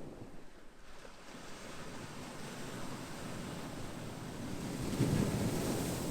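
Ocean waves washing in: the surf swells up and breaks loudest about five seconds in, then begins to recede.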